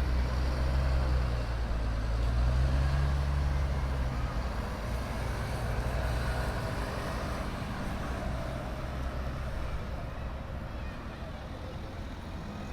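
A heavy vehicle's engine running with a low, steady rumble that fades after about four seconds, over a constant background of traffic and crowd noise.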